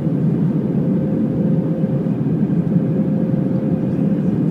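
Cabin noise inside an Airbus A319 with CFM56 engines: a steady, loud low drone of engines and airflow with a thin steady hum on top.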